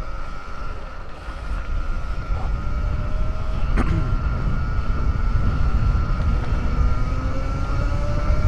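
An RFN electric dirt bike's motor whines steadily while riding, its pitch creeping up near the end, under heavy wind rumble on the microphone. A single sharp click comes about four seconds in.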